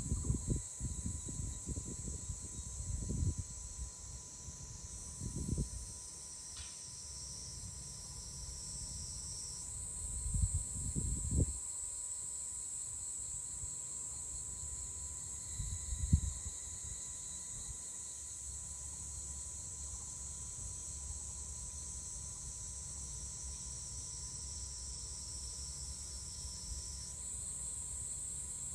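A steady high-pitched chorus of insects such as crickets, with separate trills starting and stopping, over irregular low rumbles and thumps. The rumbles come in the first few seconds, around the tenth second, and a short sharp one about sixteen seconds in.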